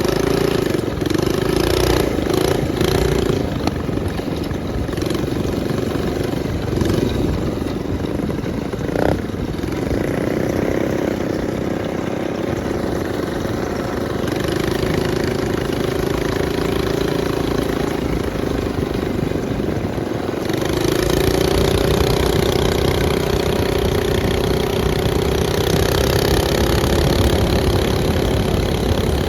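Minibike engine running steadily, its note holding even with small rises and dips, and getting louder about two-thirds of the way through.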